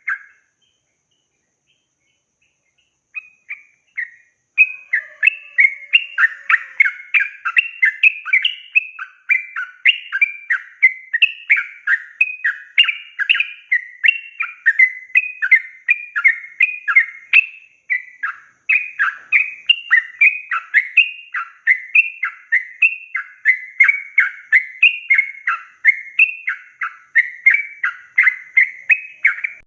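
Sooty-headed bulbul singing a long, rapid, unbroken run of chattering notes that slide up and down in pitch. The song starts after about three seconds of silence with a short phrase, then runs on continuously.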